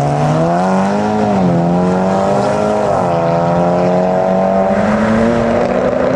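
Car engine accelerating hard while pulling away, its pitch climbing, dropping at a gear change about a second and a half in and again about three seconds in, then climbing again.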